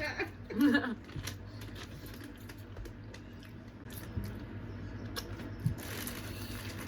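Close-up mukbang eating sounds of a seafood boil: wet squishing and chewing with scattered small clicks from handling the sauce-covered shrimp and crab.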